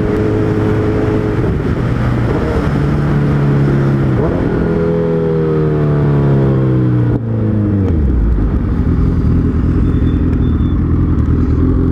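Suzuki Hayabusa's inline-four engine under way, its pitch climbing steadily as the bike accelerates, then dropping sharply about seven seconds in at a gear change or throttle-off, before settling into a steady lower drone, with constant wind and road rumble.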